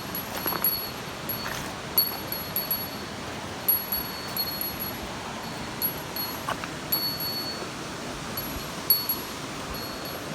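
A small bell ringing briefly again and again at uneven intervals, every second or two, over the steady rush of a nearby waterfall and stream.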